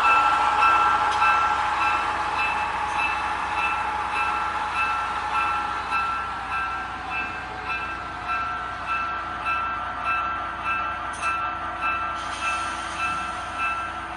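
Digital sound of a diesel locomotive from a model train's QSI sound decoder: the locomotive bell rings at an even pace of about two strokes a second over the steady hum of the engine, which drops a little partway through.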